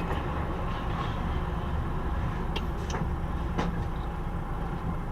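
Car on the move: steady low engine and road rumble, with a few faint clicks about two and a half to three and a half seconds in.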